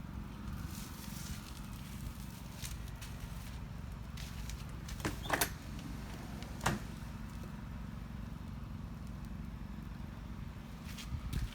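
Wind rumbling on the phone's microphone, with a few short sharp clicks near the middle.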